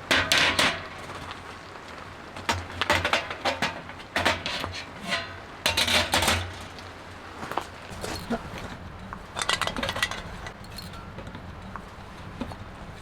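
Dishes and cooking utensils clinking and clattering in about six short bursts of handling, over a steady low background hum.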